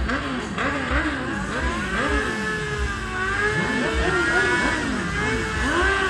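Motorcycle engine revved up and down in quick repeated blips, then held at high revs near the end.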